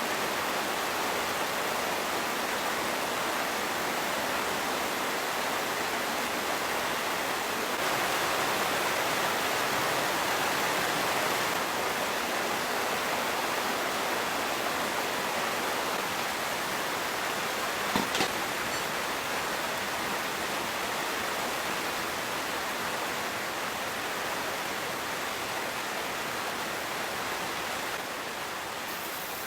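Steady rushing storm noise of wind and rain, rising a little about a quarter of the way through and easing again, with one sharp knock about two-thirds of the way in.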